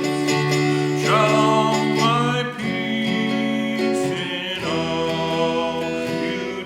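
Music led by acoustic guitar, with held chords that change about every two seconds.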